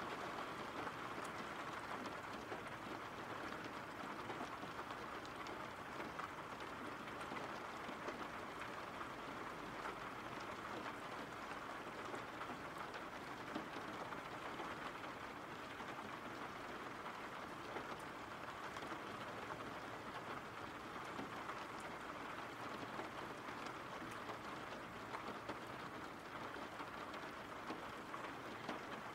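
Steady rain: an even hiss of falling drops with scattered faint ticks of individual drops.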